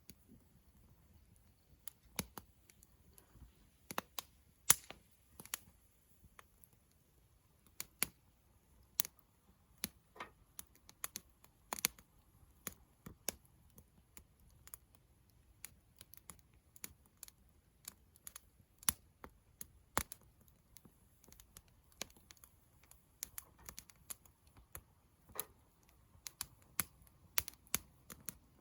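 Wood campfire crackling: irregular sharp pops and snaps, some louder than others, over a faint low hiss of burning.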